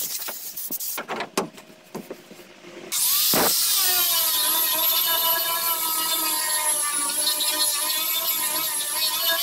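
A few light knocks, then about three seconds in a power sander starts up, its motor whining up to speed and then running steadily.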